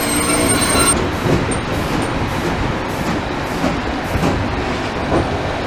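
Beovoz electric commuter train running on the rails, heard from inside the car: a steady rolling rumble with irregular light clicks. A high, steady wheel squeal stops abruptly about a second in.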